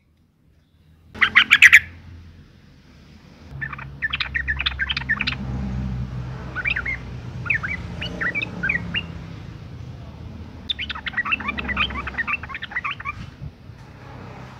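Yellow-vented bulbul (trucukan) giving quick, bubbly chirping calls in clusters, the call of a female in breeding condition. A short loud burst comes about a second in, and a longer run of chirp groups follows from about three and a half seconds until near the end.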